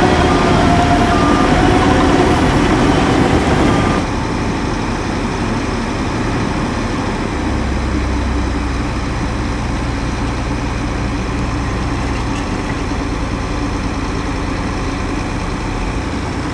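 Heavy diesel earthmoving machinery running, with a reversing alarm beeping at a steady pace during the first few seconds. About four seconds in the sound drops abruptly, and a steadier, quieter diesel engine drone carries on.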